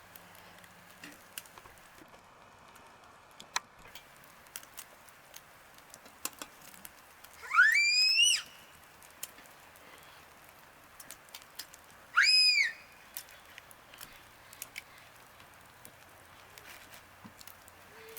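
Two loud whistled calls about four seconds apart, each under a second long: the first climbs steeply, then levels off and holds; the second is shorter and rises, then falls away. Faint scattered ticks lie underneath.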